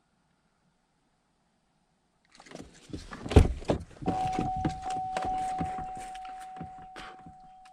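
Knocks and clatter of a pickup truck door and cab being handled, with one loud knock about three and a half seconds in, then a steady electronic warning chime from about four seconds in.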